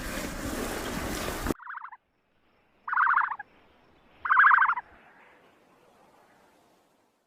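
A turkey gobbling twice, each gobble a short, rapid rattling call about half a second long, with a brief first note just before. It comes after a steady noisy hiss that cuts off suddenly about a second and a half in.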